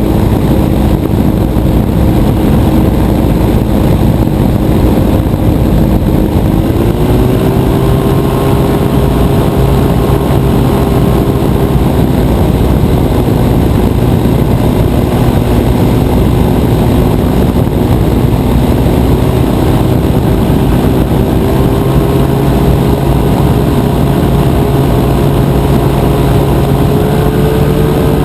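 Rotax 582 two-stroke twin engine of a powered parachute running steadily at cruise power. Its pitch steps up about six seconds in and climbs slowly again near the end.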